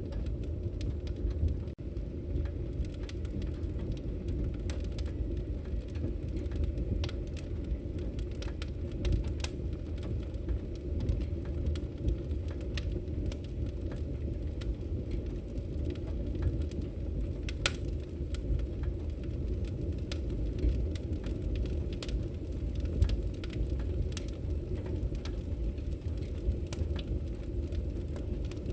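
Wood fire crackling in a fireplace: irregular sharp pops and crackles over a steady low rumble.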